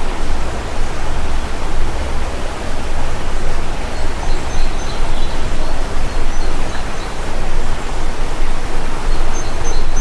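Steady rushing water of a stream, with a few faint, high bird chirps about four seconds in and again near the end.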